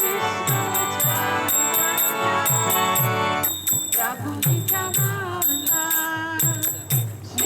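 Devotional kirtan music: small hand cymbals (karatalas) clash in a steady rapid beat over low drum strokes that drop in pitch, typical of a mridanga. A melody carried on sustained tones runs throughout, bending more freely in the second half.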